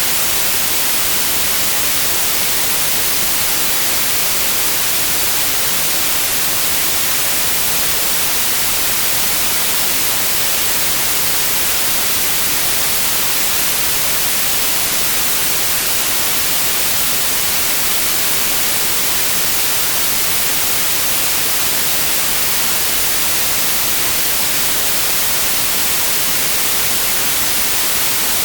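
Steady synthetic white noise: an even, unchanging hiss, loudest in the high frequencies.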